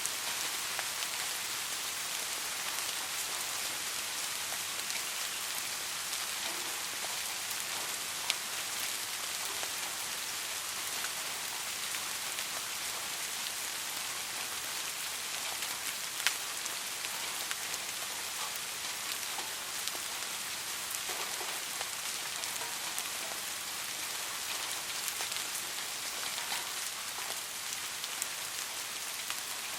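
Steady soft rain falling, an even patter with scattered individual drops ticking, one or two a little louder.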